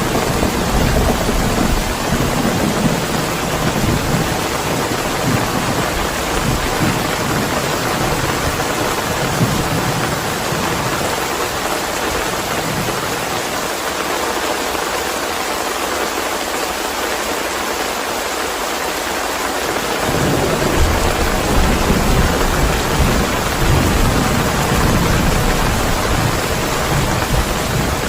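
Steady heavy rain with low rolling thunder. The rumble dies away a little before halfway and comes back louder about two-thirds of the way through.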